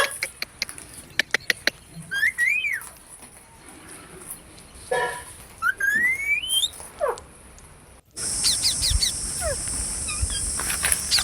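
Pet green parrot giving rising whistles, with a few sharp clicks near the start. After about eight seconds the sound changes abruptly to a steady high-pitched hiss with many quick chirps over it.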